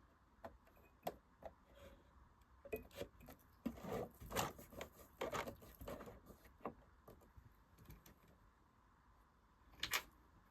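Irregular light clicks and knocks from handling a Singer Genie sewing machine and its fabric, with a sharper click near the end. The machine is not running.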